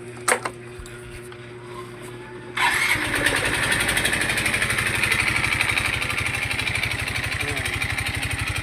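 A sharp click, then about two and a half seconds in the single-cylinder engine of a Yamaha Mio i 125 scooter starts and settles into a steady idle with a rapid, even beat. The engine has an engine knock that the owner puts down to it having run dry of oil.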